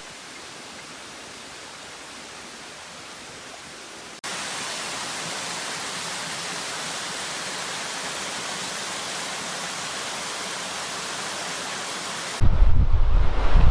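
Steady hiss of heavy rain, stepping up louder at a cut about four seconds in. About a second before the end, wind buffets the microphone with a loud low rumble.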